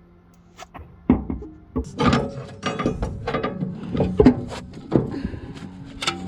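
Irregular knocks and scraping of hand-tool work on car suspension parts, starting about a second in, over faint background music.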